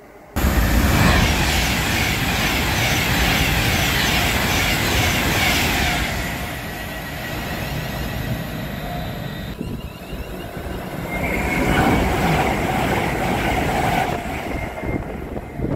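A train passing close by on the rails, starting suddenly about half a second in. It is a loud, steady noise of wheels on rails that eases off, swells again, and falls away at the end.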